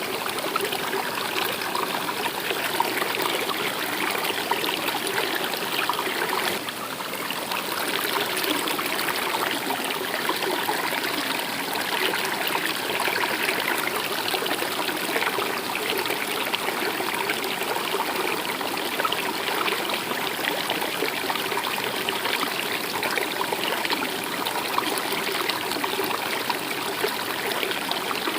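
Stream water flowing and trickling steadily, dipping briefly about six seconds in.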